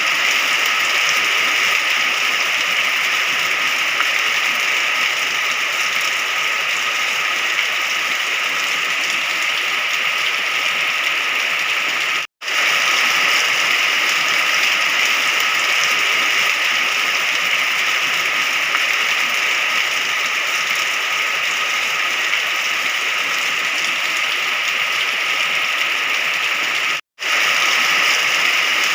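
Steady heavy rain, an even dense hiss with no thunder, that cuts out to silence for an instant twice, about twelve seconds in and again near the end.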